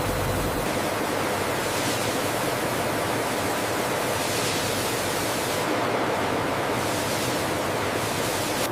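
Steady rushing noise with a faint steady hum.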